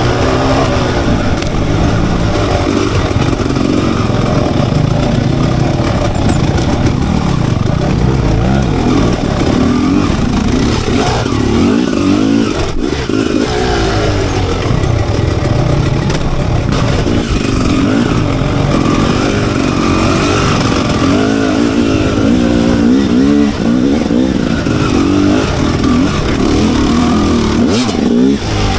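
Enduro motorcycle engine running continuously, its pitch rising and falling as the throttle is worked, with a brief drop about twelve seconds in.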